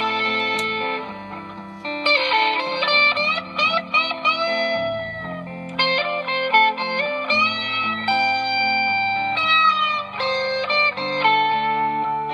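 Gretsch G3161 hollow-body electric guitar with Gretschbucker pickups, played through a Fender Excelsior tube amp: picked single notes and ringing chords that change every second or so, with a note bent upward about four seconds in.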